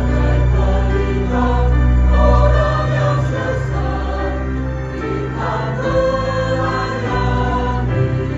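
Church choir singing, holding long notes over a steady low accompaniment.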